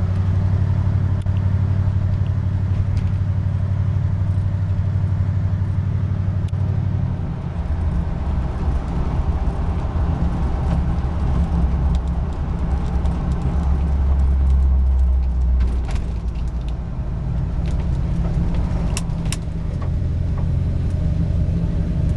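1972 Ford Ranchero GT's 351 V8 running while driving, heard from inside the cab. The engine note drops about seven seconds in and climbs again later on. A few light clicks come in the latter part.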